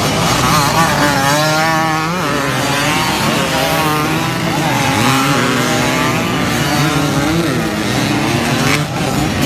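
Motocross dirt bike engines running, their pitch rising and falling as they rev over a steady lower engine drone.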